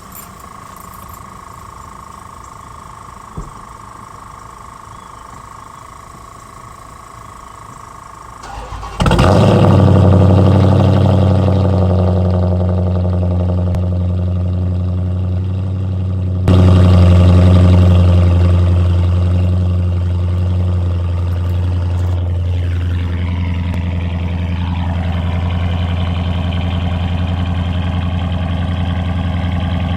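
Dodge Challenger with its resonators and mufflers deleted: the engine cranks and starts about nine seconds in, then settles into a loud, steady idle through the open exhaust. A sudden louder step comes about halfway through before the idle eases back.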